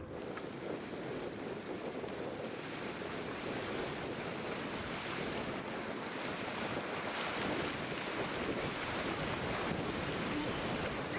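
Wind and waves on a large river, with wind gusting across the microphone, growing slightly louder. A few faint high bird chirps come through in the second half.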